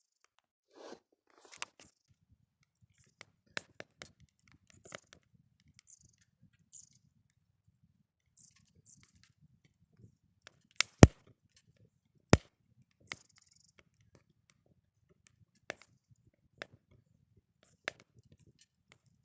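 Small wood fire crackling, with scattered sharp pops and two louder snaps about eleven and twelve seconds in.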